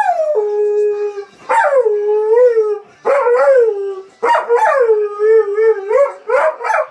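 Dog howling, 'singing', in a run of about five long wavering howls with short breaks between them, the pitch sliding up and down within each.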